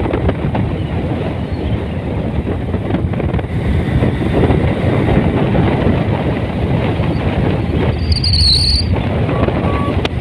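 Steady rushing, rumbling noise of a vehicle on the move, with a brief high squeal about eight seconds in.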